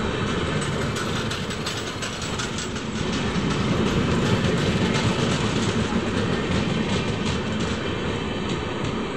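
Passenger train coaches passing at close range: a steady rumble of steel wheels on the rails with rapid clicks and clatter, growing slightly louder a few seconds in.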